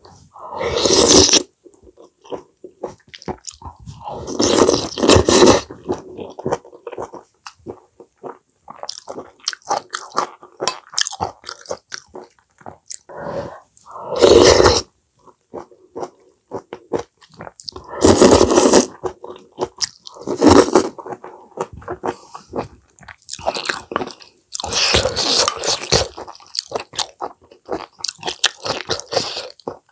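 Close-miked eating: wet chewing of mouthfuls of seaweed and greens, with louder crunching bites every few seconds.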